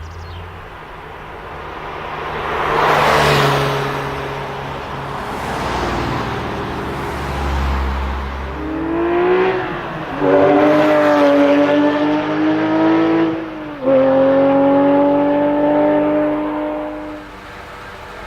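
Porsche 997 GT3 RS 4.0 flat-six with an Akrapovic exhaust accelerating hard. A car passes about three seconds in; later the engine revs up and holds high revs, drops sharply for an upshift, pulls high again, then fades away.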